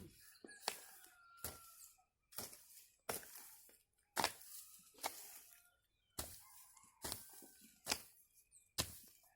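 Hoe chopping into garden soil in steady strokes, about one a second, each a short sharp thud.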